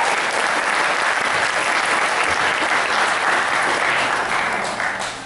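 Audience applauding, a steady dense clapping that begins to thin and die away near the end.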